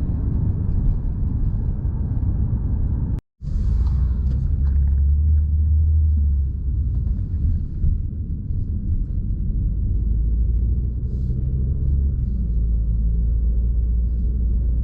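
Strong wind buffeting the microphone, a loud low rumble. It breaks off for an instant about three seconds in, then carries on.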